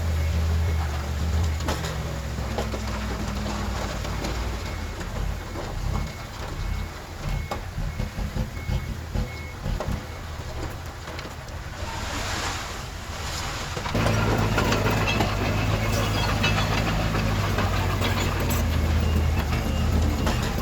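Diesel engines of heavy earthmoving machinery running, with scattered metal clanks and rattles through the middle and a hiss shortly before a sudden switch to a louder, steadier engine note about two-thirds of the way in.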